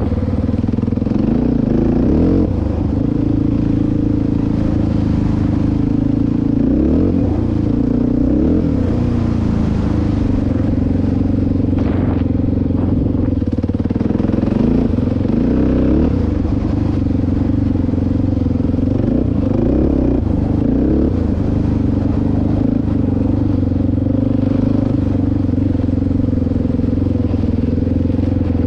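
Single-cylinder dirt bike engine running while riding, loud and steady, its pitch rising and falling now and then with the throttle.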